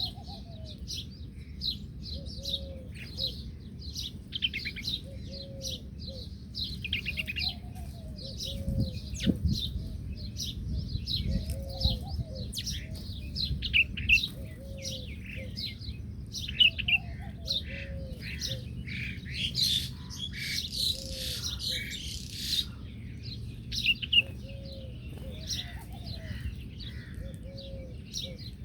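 Several small birds chirping and twittering, densely, with a low call repeating every couple of seconds under the chirps.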